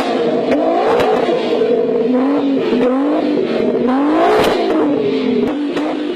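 VW Golf engine revving hard under acceleration, its pitch climbing and falling back several times, with scattered sharp clicks.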